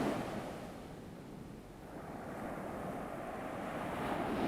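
Ocean surf sound effect: waves washing on a shore, the wash ebbing a little under two seconds in and swelling again with the next wave towards the end.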